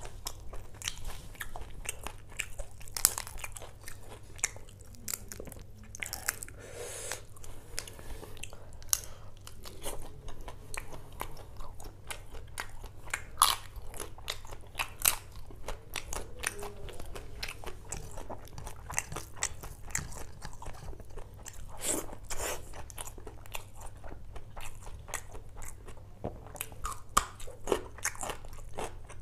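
Close-miked eating of seafood curry and rice by hand: steady chewing with many sharp, irregular crunching bites, over a low steady hum.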